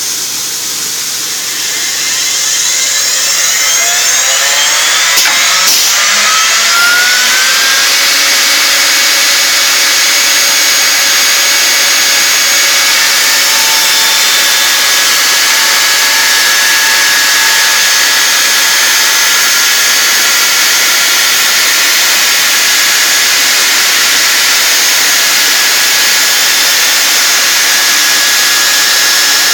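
CNC router spindle spinning up, its pitch rising over the first several seconds, then running steadily at speed while cutting a wooden stair stringer.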